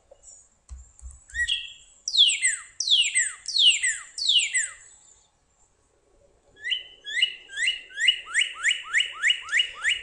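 Northern cardinal song: four loud downslurred whistles, then after a short pause a quicker run of about ten short 'white, white, white' notes that speed up toward the end.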